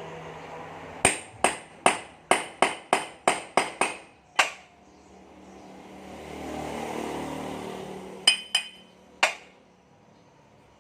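Hammer striking metal parts with a ringing, metallic clink: about ten quick blows in a row, then three more a few seconds later. Between the two runs a rush of noise swells and fades.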